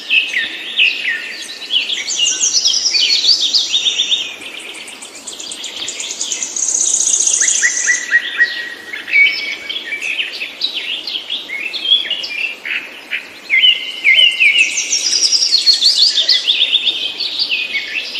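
Songbird singing in long, fast, varied phrases of trills and chirps, with a rapid high trill in the middle.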